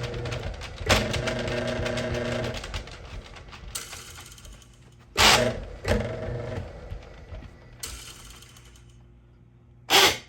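Drain auger (drain snake) machine running: a steady motor hum with a rattle from the turning cable. It surges about a second in and winds down after about two and a half seconds. A few loud clattering knocks follow, the loudest near the end.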